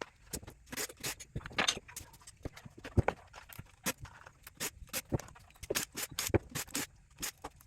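Hand tools knocking and clinking against an electric motor as it is taken apart for scrap: a quick, irregular run of sharp taps and knocks.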